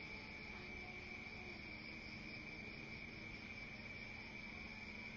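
Night insects trilling steadily in the background, a faint continuous high-pitched drone.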